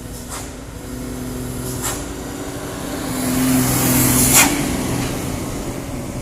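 Overloaded sugarcane truck's diesel engine pulling steadily up a climb, growing louder as it draws near and then easing off. A short, sharp hiss of air cuts in about four seconds in.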